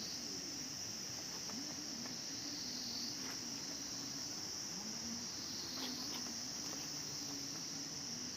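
Steady, high-pitched chorus of insects shrilling without a break, with faint wavering low sounds beneath it.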